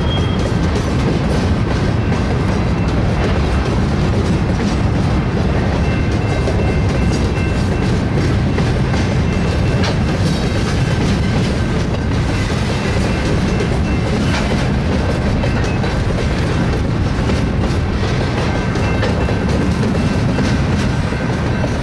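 Herzog ballast cars of a BNSF ballast train rolling past: a steady rumble with the clickety-clack of the wheels over rail joints, and faint steady high-pitched squealing tones that come and go.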